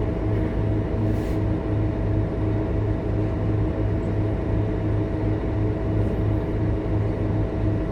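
Scania K230UB bus's diesel engine running at a steady speed: a constant low drone with a pulsing hum and a few steady tones above it, no revving up or down.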